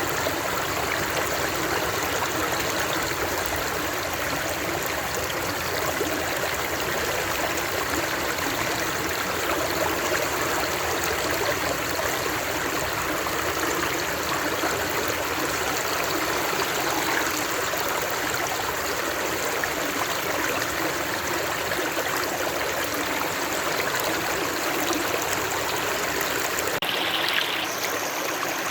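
Running water flowing steadily, as of a stream, with a slight shift in its sound near the end.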